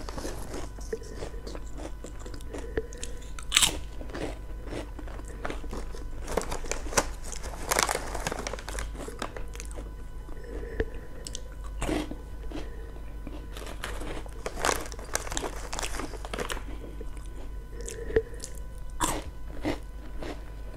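Potato chips being bitten and chewed close to a small microphone: irregular crisp crunches, with a steady low hum underneath.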